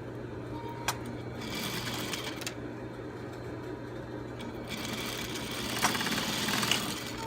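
Sewing machine stitching a seam across a bra strap in two runs, a short one and then a longer one of about two seconds, with a click just before the first.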